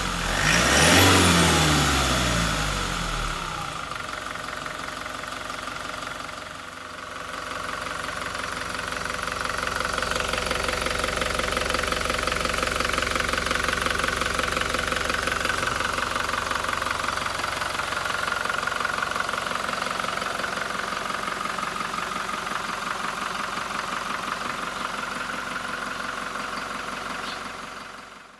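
Toyota Hilux 2.4-litre 2GD-FTV turbo diesel engine coming down from a rev, with a quick blip about a second in, then settling into a steady idle that cuts off abruptly at the end.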